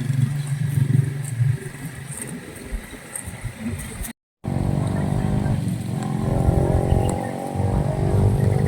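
An engine running with a steady low hum. The sound cuts out completely for a moment about four seconds in, then comes back as a stronger, steady pitched drone.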